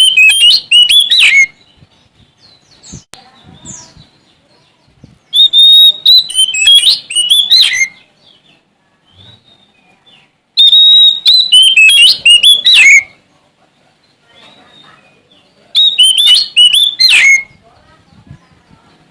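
Sumatran oriental magpie-robin (kacer) singing loudly in repeated phrases about every five seconds. Each phrase opens with a held whistle and breaks into a quick run of varied notes that fall away at the end.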